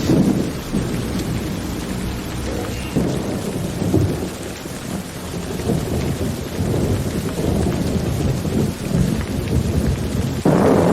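Rain falling steadily under a low, rolling rumble of thunder that swells and fades several times. About ten seconds in, the sound jumps suddenly to louder, fuller rain.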